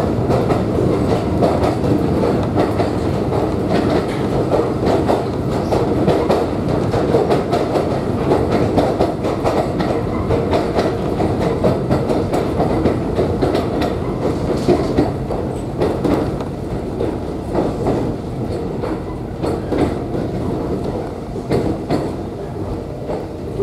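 Kōnan Railway Ōwani Line electric train running, heard from inside the car: a steady rumble with the clickety-clack of wheels over rail joints, easing a little in the last few seconds.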